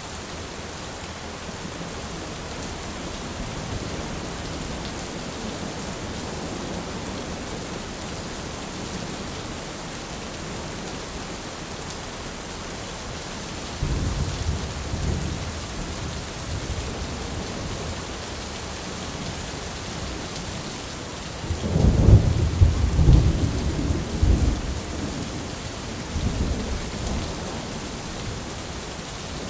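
Steady rain with thunder: low rumbles of thunder roll in about halfway through, a louder, longer rumble follows a few seconds later, and a smaller one comes near the end.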